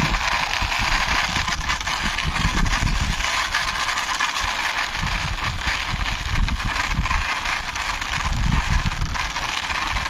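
Wind buffeting the microphone in irregular low rumbles over a steady hiss of outdoor background noise.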